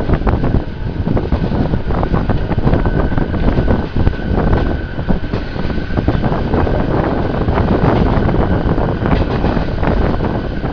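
Passenger train running on the rails, heard from on board: a loud, dense rumble with rapid irregular clattering of wheels and carriages, and a faint steady high whine under it. Wind buffets the microphone.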